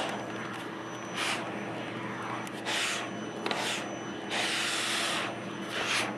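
Vacuum cleaner motor running with a steady hum while its brush nozzle is stroked through a cat's fur, giving about five rubbing swishes, the longest a sweep of about a second near the middle.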